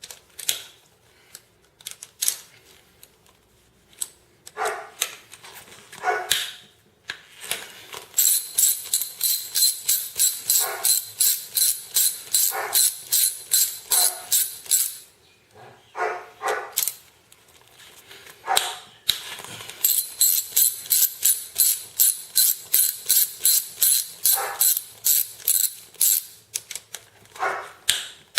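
Ratchet wrench working engine bolts during a valve cover job: a few separate metal knocks, then two long runs of quick, even, ringing metallic clicks, a little under four a second.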